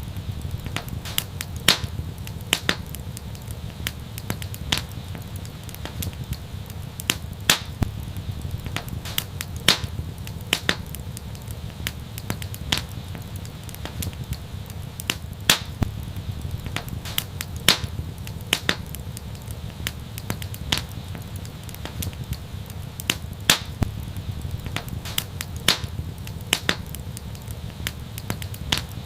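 Wood fire burning with a steady low rumble and irregular sharp crackles and pops, several loud snaps standing out over a stream of smaller ones.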